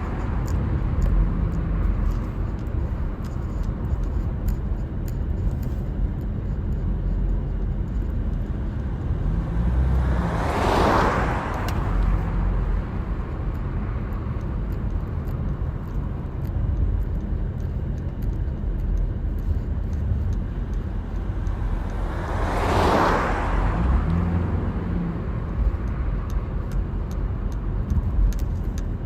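Steady low rumble of a car driving on a road, with two other vehicles rushing past, swelling and fading, about twelve seconds apart.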